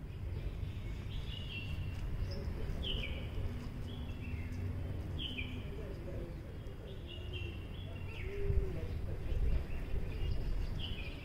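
Birds calling: a short call that drops in pitch, repeated again and again, over a low steady rumble of background noise.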